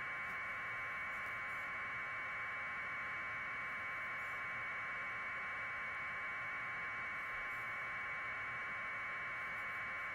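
Steady static hiss from the audio line, a thin mid-pitched hiss that never changes in level or pitch.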